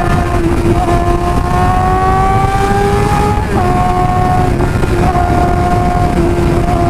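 Suzuki GSX-R600's inline-four engine pulling at high revs, its pitch climbing steadily for about three seconds, then dropping sharply on an upshift about halfway through and holding steady after. Under it is a steady rush of wind noise.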